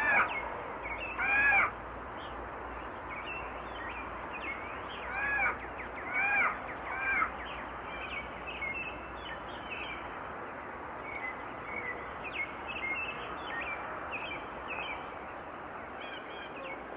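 Wild birds calling. About five loud, harsh, caw-like calls in the first seven seconds, each rising and falling in pitch, then many short, high chirps from other birds over a steady background hiss.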